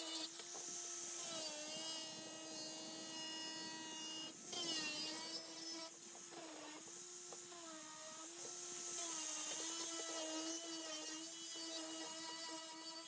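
Small electric power tool running steadily, its pitch dipping and recovering several times, with some scraping noise over it.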